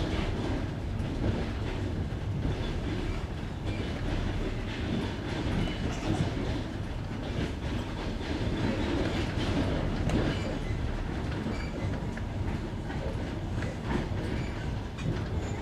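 Passenger train carriage running over jointed rails: a steady rumble with the wheels knocking at the rail joints, the classic clickety-clack.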